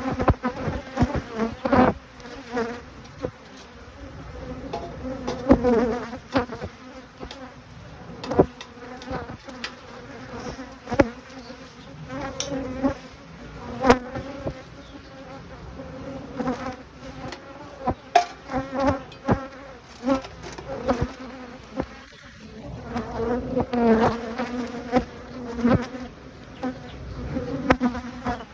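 Honeybees buzzing around an opened hive, a steady hum, with frequent sharp clicks and knocks scattered through it.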